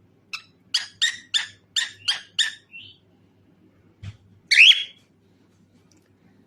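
Cockatiel calling: a quick run of about eight short chirps, then one louder, longer call a little past the middle.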